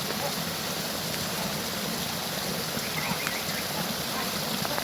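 Heavy rain pouring down as a steady, even hiss, with a few faint ticks of individual drops.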